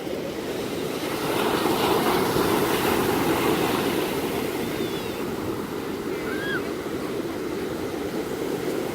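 Ocean surf: waves washing in steadily, growing louder for a couple of seconds early on and then easing.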